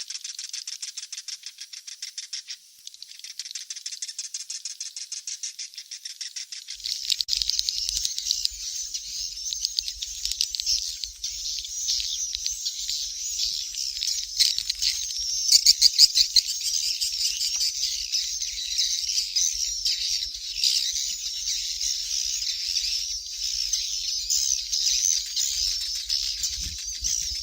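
Recorded swiftlet chick calls, as used to lure swiftlets into a nesting house: rapid high-pitched twittering and chirping. The calls come as fast, even ticks at first and grow into a denser chatter about seven seconds in.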